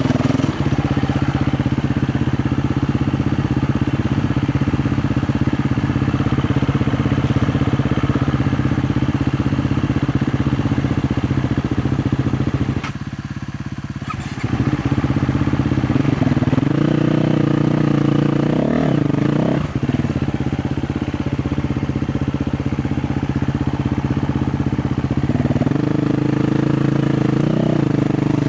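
KTM 350 XC-F four-stroke single-cylinder dirt bike engine running steadily under load. About halfway through the throttle closes briefly and the engine note drops, then the revs rise and fall in blips a few seconds later and again near the end.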